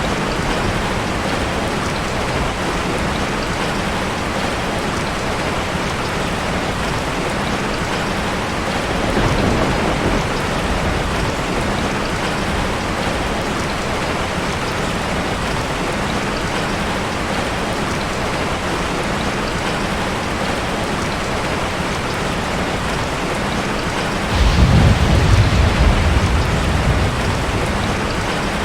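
Steady rain, with two low rolls of thunder: a faint one about a third of the way in and a louder one near the end.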